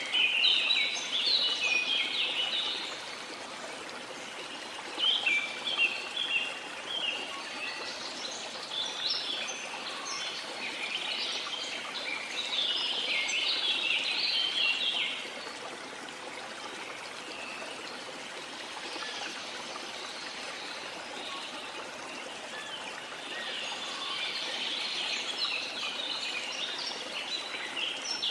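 Small songbirds chirping and twittering in bursts of rapid high notes over a steady wash of sea water; the chirping thins out for a few seconds after the middle, then picks up again near the end.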